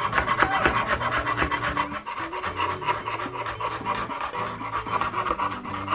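Kitchen knife rapidly mincing garlic on a cutting board: a fast, even run of chops.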